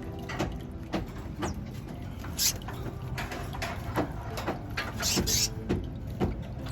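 Small cage birds moving about in a wire aviary: irregular light knocks and rustles, with a short high-pitched burst about two and a half seconds in and another about five seconds in.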